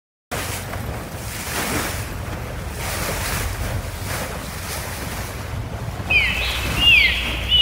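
Sea and wind rushing over the microphone, then, from about six seconds in, dolphins whistling: a run of short, high, falling-and-rising chirps repeated several times.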